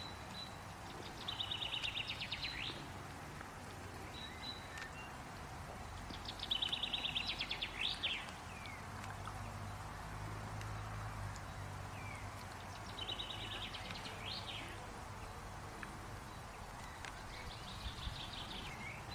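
A songbird repeats the same short, fast trill ending in a quick flourish four times, roughly every five seconds, the last one fainter. A faint low rumble of outdoor ambience lies beneath.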